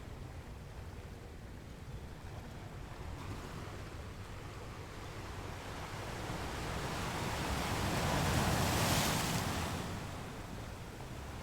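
Sea waves washing on a shore: a steady surf hiss, with one wave swelling louder to a peak about nine seconds in and then drawing back.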